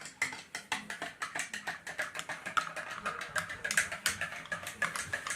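Rapid light clicking and tapping, several sharp clicks a second and uneven in strength.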